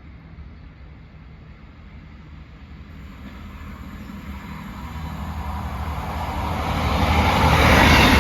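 Northern Class 158 diesel multiple unit approaching and passing through the station without stopping. Its low engine drone and rail noise grow steadily louder to a peak near the end.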